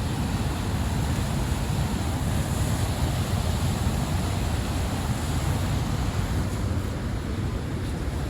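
Steady rushing roar of Niagara Falls' falling water, mixed with wind buffeting the microphone.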